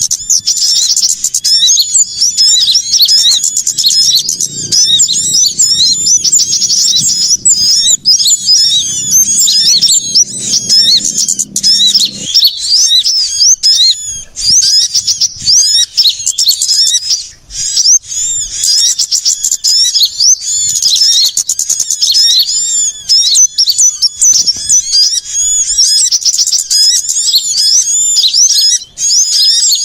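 A busy, noisy chorus of many small birds chirping and twittering rapidly and without pause: a bird-luring recording of mixed small-bird calls. A faint low hum lies beneath the calls and stops about twelve seconds in.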